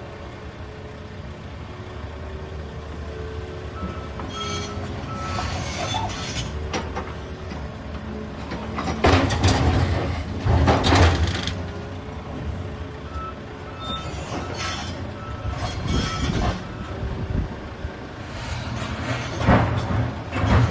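Volvo EC380EL excavator's diesel engine running under hydraulic load while loading rock. Loud clattering crashes come about halfway and again near the end as rocks drop into the truck's steel dump body. A faint series of beeps sounds twice in between.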